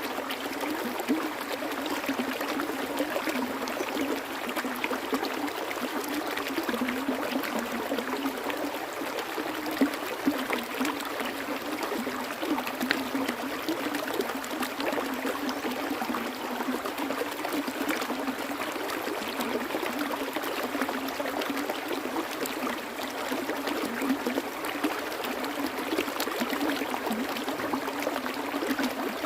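Water flowing steadily, an even rushing with small splashes and pops scattered through it.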